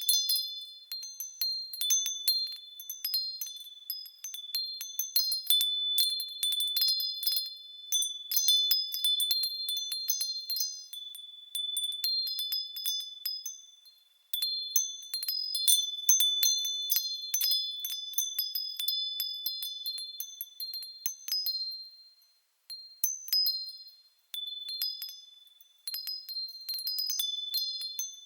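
Japanese fūrin wind chime ringing in the breeze: the clapper strikes at irregular intervals, sounding a few overlapping high, clear tones that ring on and fade. The ringing lulls almost to silence briefly about halfway through and again a few seconds later.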